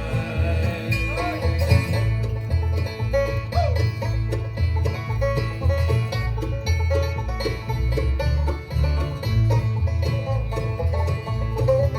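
A bluegrass band playing an instrumental break between sung verses, with the banjo to the fore over guitar and a bass line stepping through its notes.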